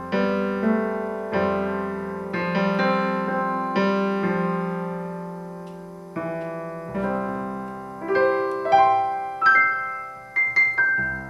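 Roland Juno-DS61 synthesizer playing its default grand piano sound: sustained chords with the pedal, then a higher melody of single notes in the second half.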